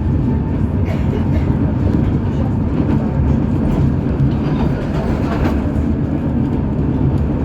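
UKVZ KTM-23 (71-623-04.01) tram running along the track, a steady low rumble of wheels on rails with a few faint clicks, heard from inside the passenger car.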